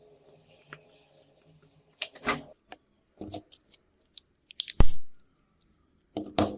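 Small hard objects being handled on a work surface: a run of clicks and short scrapes, with one sharp knock a little under five seconds in.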